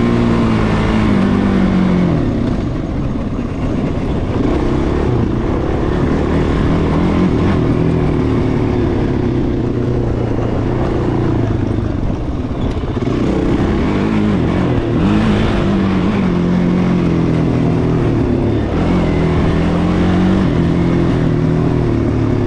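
Off-road vehicle engine running hard under throttle, its pitch rising and falling and now and then dropping in steps.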